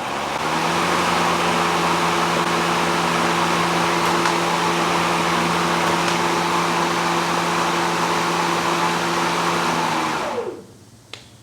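Ryobi battery-powered electric lawn mower started with the start button and bail: the motor and blade spin up at once and run at a steady speed with a hum and a rushing whoosh, then stop about ten seconds in when the bail is let go.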